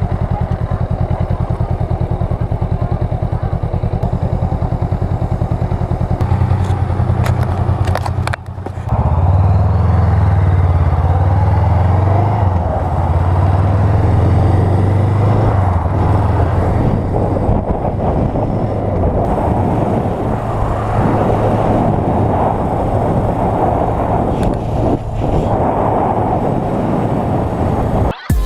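Honda Rebel 500 parallel-twin engine running under way, its pitch rising and falling as the bike speeds up and slows. A short drop in sound about eight seconds in, then louder running.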